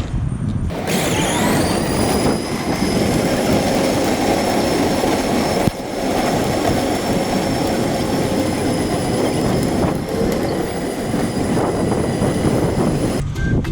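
Recycling truck running: a steady high-pitched whine over a low engine rumble, with a brief break about six seconds in.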